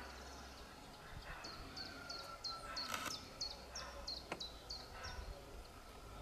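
A songbird singing a run of about ten quick, high, falling notes, roughly three a second, over faint outdoor background noise. A sharp click falls about halfway through.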